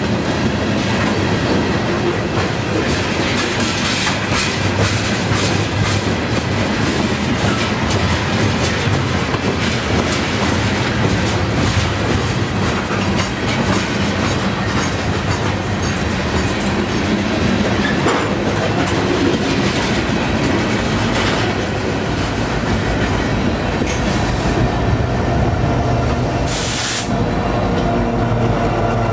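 Freight train tank cars and covered hopper cars rolling past close by, their wheels clicking steadily over the rail joints in a continuous clickety-clack. A brief high hiss sounds near the end.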